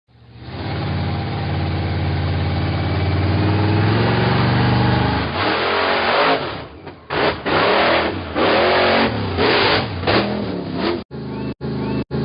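Monster truck engine running steadily, then revved in a series of separate bursts from about five seconds in. Near the end the sound cuts out briefly several times.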